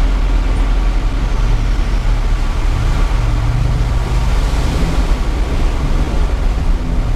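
Mitsubishi Triton pickup's engine running steadily at low speed, heard from inside the cab as a continuous low rumble.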